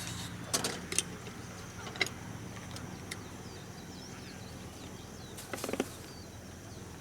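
A few sharp wooden knocks and cracks: two about half a second and a second in, one about two seconds in, and a quick cluster near the five-and-a-half-second mark, as from firewood being chopped or handled.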